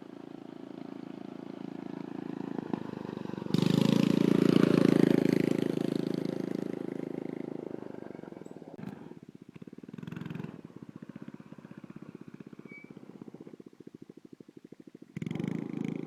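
Small single-cylinder mini-bike engine running with its muffler removed, giving a raw, rapid popping exhaust. It gets suddenly much louder about three and a half seconds in and then fades away over the next few seconds, dropping low near the end before coming up again.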